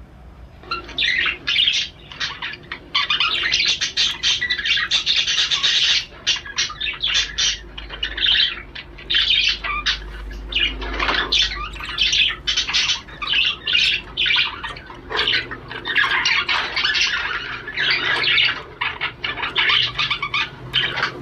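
Male budgerigar's courtship warble: fast, unbroken chattering and chirping with squawky notes, the song a male budgie uses to court a hen and bring on breeding.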